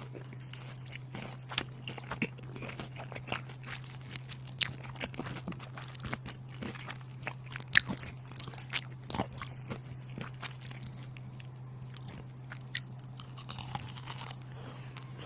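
Crunchy food being bitten and chewed close to the microphone: many sharp, irregular crunches, over a steady low hum.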